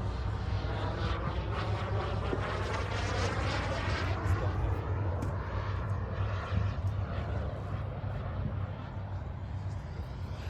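JetCat 300 Pro model jet turbine in a BVM Desperado flying a pass overhead, a steady rushing jet sound with a sweeping shift in tone over the first few seconds, easing off a little near the end.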